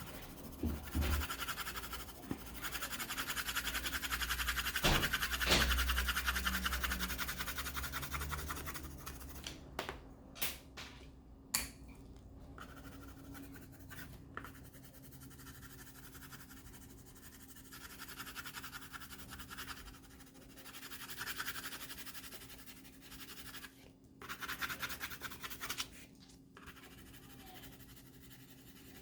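Colored pencil scribbling back and forth on paper in fast, even strokes, shading in a large area. It eases off about nine seconds in, with a few sharp clicks, and picks up again near the end.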